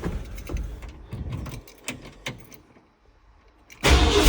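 A few light clicks and rattles, a second of near silence, then the 1979 Ford F-150's Holley four-barrel-carbureted engine starting loud near the end: a cold start after the truck has sat parked for a while.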